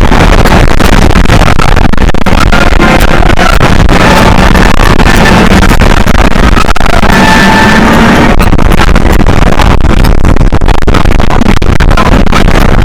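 Steel launched roller coaster train running at speed: a loud, distorted rumble of wind on the microphone and the train on the track, with the ride's music playing underneath.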